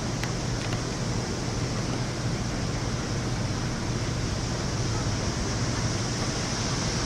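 Steady heavy rain during a thunderstorm, a constant rushing hiss with no thunder in this stretch.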